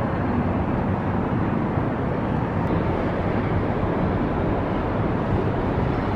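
Steady rushing noise with no distinct events, strongest in the low and middle range.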